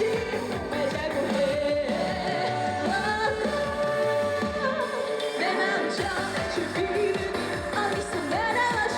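A Korean trot song performed live: a singer's voice carries the melody over band accompaniment. The bass and drums drop out for about a second and a half near the middle, then come back in.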